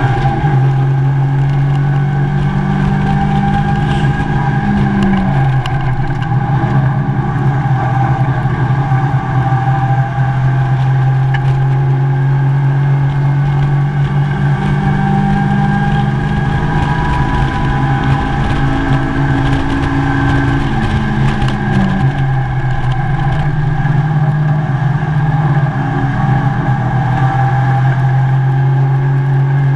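Mazda MX5 race car's four-cylinder engine at full race pace, heard from inside the cockpit over road and wind noise. Its note rises and falls as the car accelerates and slows through the corners, with clear drops about five seconds in and again around twenty-one seconds.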